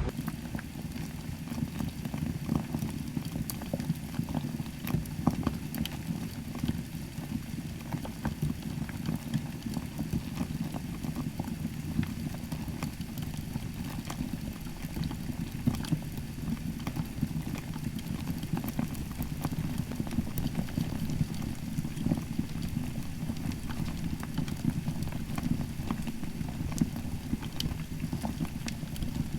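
A large pot of chicken broth boiling hard, a steady bubbling rumble dotted with many small pops.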